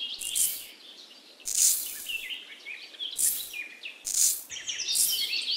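Small birds chirping throughout, with about five short hissing rushes of dry sand being scooped and poured.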